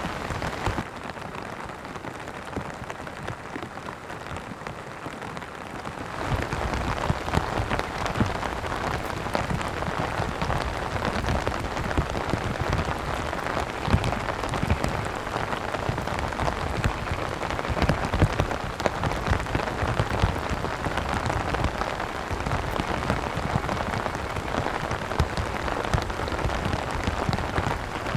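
Steady rain with countless single drops hitting a surface. It is lighter for the first few seconds, then heavier and fuller from about six seconds in.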